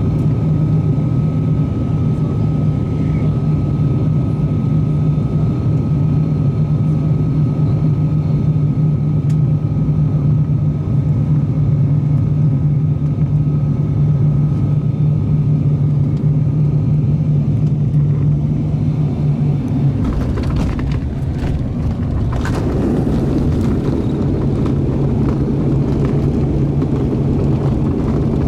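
Cabin sound of an ATR 42-600 turboprop: a steady low propeller and engine drone with a faint steady whine above it. About 20 seconds in, the drone drops back and a rougher rushing noise takes over, growing louder a couple of seconds later.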